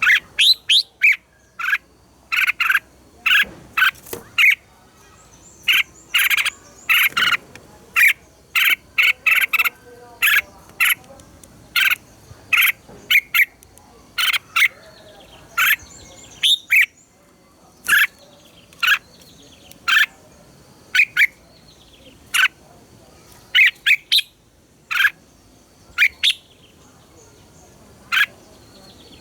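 Red-whiskered bulbul singing: a run of short, clear whistled notes and phrases, closely packed in the first half of the stretch, then coming about one a second.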